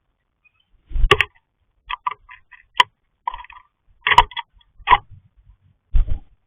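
A run of irregular sharp taps and short knocks right on the camera, some with a dull thud, coming in uneven clusters about seven times.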